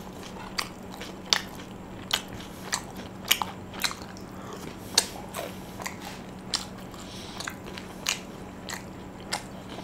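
A person chewing crunchy fried food close to the microphone, with sharp crunches every half second to a second.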